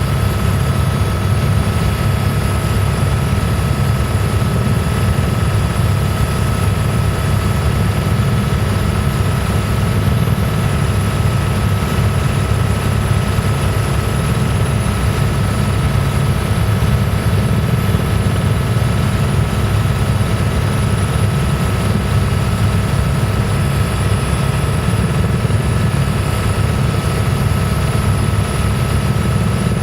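Helicopter in steady flight heard from inside the cabin: a loud, unchanging low rotor and engine drone with a steady high whine over it.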